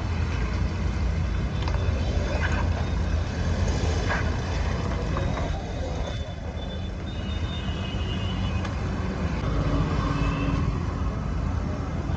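Steady low rumble of road and engine noise from a car being driven.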